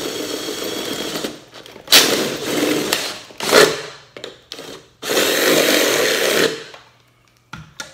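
Electric drill boring through the thin metal body of a vintage camera to enlarge a hole, run in several bursts: a run that stops about a second in, two shorter ones, and a longer one near the end.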